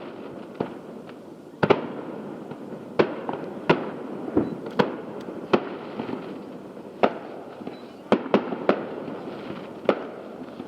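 Aerial fireworks going off: about a dozen sharp bangs at irregular intervals, some in quick clusters, over a steady rumble between them.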